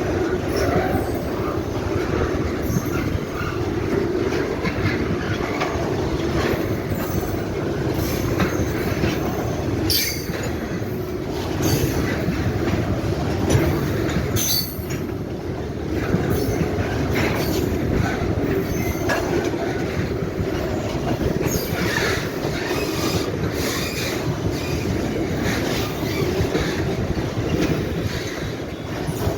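Freight train of fuel tank wagons rolling past, with a steady rumble of steel wheels on the rails broken by brief high squeals and clicks now and then.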